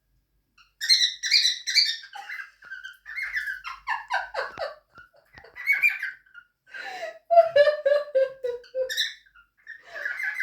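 Cockatiels chirping and chattering back and forth, starting about a second in: a quick run of sharp high chirps, then a falling warble, and later a string of lower repeated notes.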